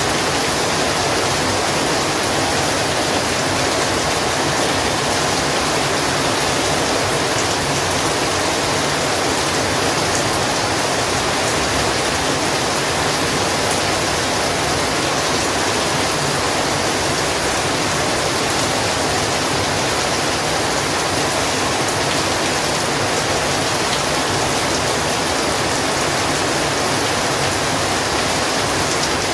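Heavy rain falling steadily: a dense, even hiss without separate drops or breaks.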